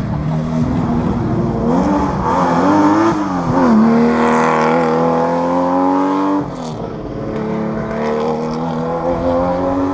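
Historic rally car engine working hard on a stage, its pitch wavering and climbing, held high for a couple of seconds, then dropping sharply about six seconds in as the driver lifts or shifts, and held high again.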